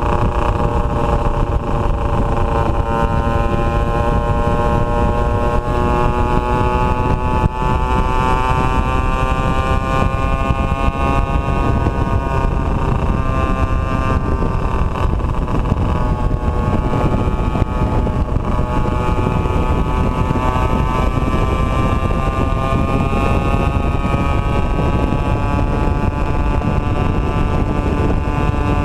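Two-stroke motorcycle engine running steadily under way, its pitch slowly rising and falling with the revs, over a heavy low rumble of wind on the microphone.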